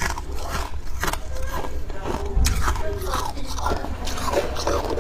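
Crunchy biting and chewing: a run of short, sharp crunches.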